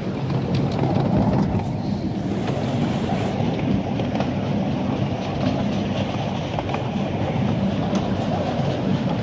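Narrow-gauge train heard from inside an open passenger carriage: a steady rumble of the wheels on the rails with a few short clicks.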